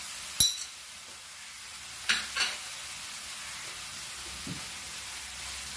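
Chopped onions, cumin seeds, curry leaves and green chillies sizzling steadily in oil in a frying pan. A sharp ringing clink comes about half a second in, and two softer knocks about two seconds in.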